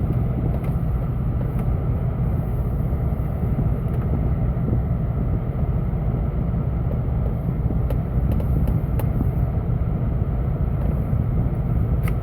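A vehicle's newly installed heater blower fan motor running steadily, pushing air through the dash vents, with the engine running underneath as a low hum. A few faint clicks around eight to nine seconds in.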